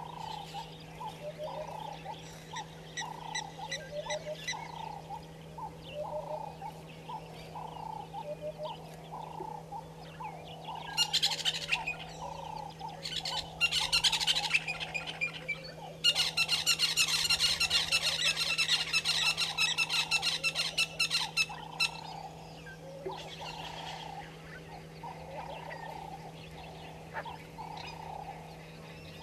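Outdoor bird calls: a regular run of short calls, about one and a half a second, broken by loud, harsh chattering calls in bursts in the middle, over a steady low hum.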